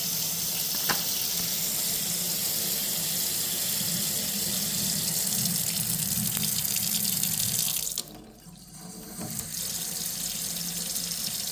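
Kitchen faucet running into a sink with a steady splashing rush. About eight seconds in the flow is cut back sharply, then turned partly up again to a smaller stream.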